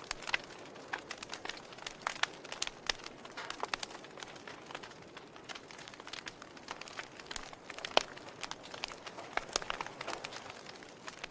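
Wood fire burning with irregular crackles and sharp pops over a soft steady hiss; one loud snap about eight seconds in.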